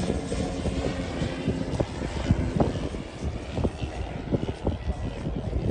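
Radio-controlled model airplane's engine on its landing approach. A steady engine tone fades after the first couple of seconds.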